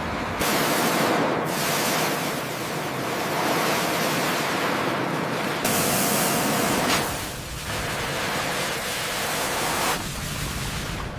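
Steady rushing hiss with no clear pitch, changing abruptly in strength and tone several times, as at cuts between shots.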